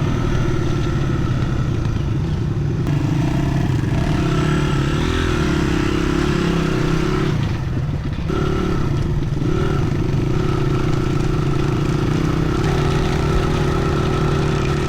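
Dirt bike engine running steadily under way, with a brief easing off about halfway through before it picks up again.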